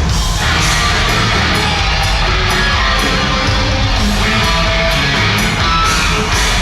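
Live hard rock band playing loud: distorted electric guitars over drums and crashing cymbals.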